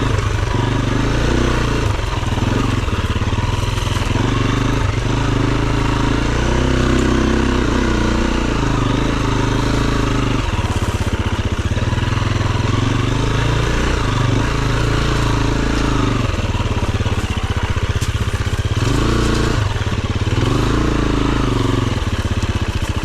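Dirt bike engine running at the throttle, its revs rising and falling every few seconds as it is ridden.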